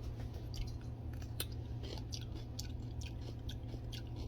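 Close-up chewing of a crisp raw vegetable dipped in almond dip, with irregular little crunching clicks over a steady low hum.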